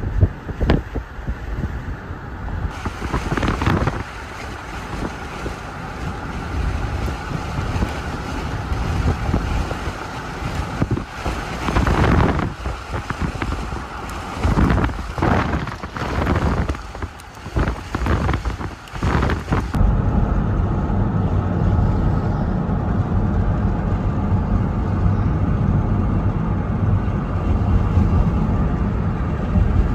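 Vehicle driving with wind gusting loudly on the microphone in repeated surges. From about twenty seconds in, the gusts drop away and a steady low engine and road rumble takes over.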